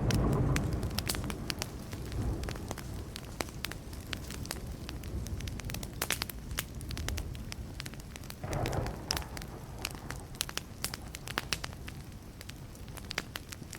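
Wood fire crackling, with frequent sharp pops and snaps. A low rumble of distant thunder swells in at the start and dies away over a few seconds.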